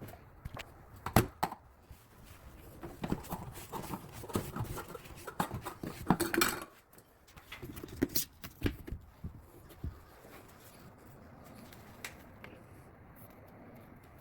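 Scattered clinks, knocks and rattles of tools and hard parts being handled under a sink during a dishwasher drain repair. They are thickest in the middle, then give way to a faint steady background for the last few seconds.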